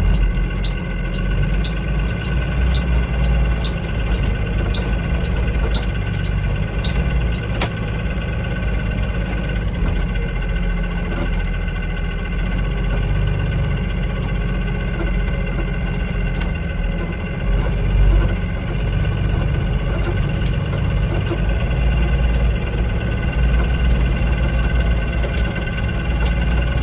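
School bus engine idling steadily, with a regular light clicking at about two a second for the first eight seconds or so.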